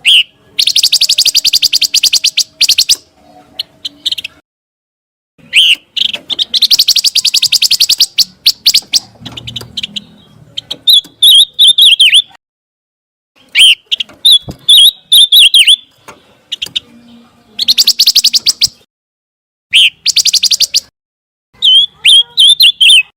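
A pancawarna songbird singing loud, fast chattering trills alternating with runs of sharp, quick whistled notes. The phrases come in bursts a second or two long, with brief pauses between them.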